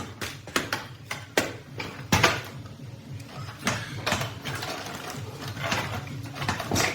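Irregular clicks and knocks of hand tools working on metal parts, about a dozen strikes over several seconds with some short scraping between them.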